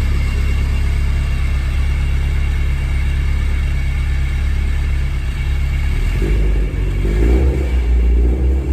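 Heavily modified 2015 Subaru STI's turbocharged flat-four engine running at a steady note, turning rougher and more uneven about six seconds in.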